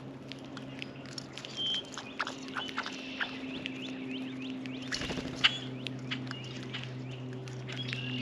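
Small songbirds at a feeder giving many short, high chip notes, mixed with sharp taps and pecks. A single louder click comes about five seconds in, all over a steady low hum.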